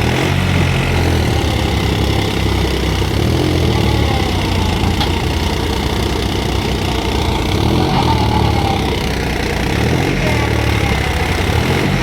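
Tractor diesel engine running hard, its pitch rising and falling again and again as it labours under load.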